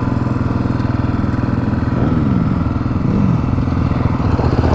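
Honda CRF250F single-cylinder four-stroke dirt bike engine idling steadily, with a fast even pulse. About two seconds in, another engine's pitch sweeps down and up briefly as a vehicle goes by.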